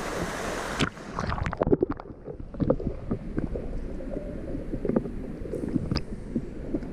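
Steady rushing roar of a waterfall that cuts off abruptly just under a second in. After it come irregular low knocks and thumps over a fainter hiss.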